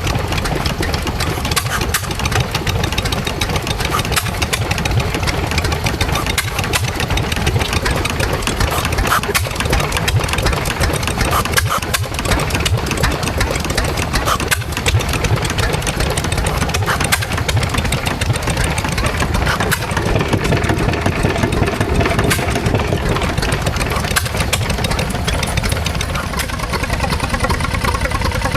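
Small stationary engine running steadily, with a fast, even run of firing knocks.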